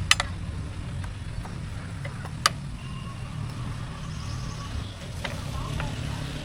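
An engine running steadily with a low, uneven rumble, with a few sharp clicks over it, the loudest about two and a half seconds in.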